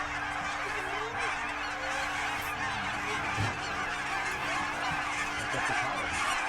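A large flock of wild geese calling overhead, a dense, continuous chorus of many overlapping honks and cackles as the birds circle over a decoy spread.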